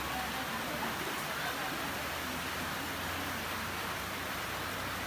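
Steady rain falling: an even hiss with no breaks.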